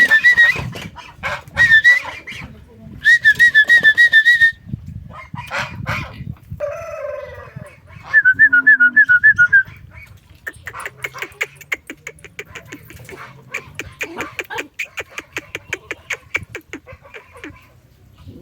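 Chickens clucking and calling: repeated high warbling calls in the first half, then a long run of quick clucks.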